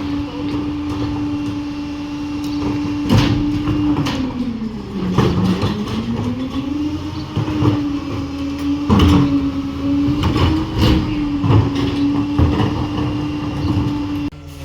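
Garbage truck running with its packing hydraulics at work: a steady hum that sags in pitch about five seconds in and comes back up, with repeated sharp metal bangs and clanks.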